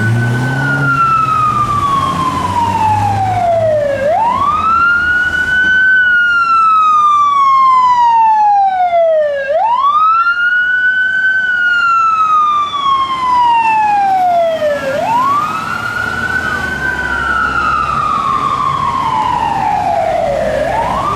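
Fire engine siren sounding a wail, rising quickly and falling slowly about every five seconds, from a Los Angeles Fire Department engine responding to an alarm. The truck's engine rumbles low beneath it at the start and again near the end.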